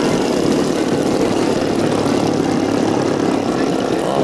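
Giant-scale radio-controlled model airplane running its propeller steadily and loudly.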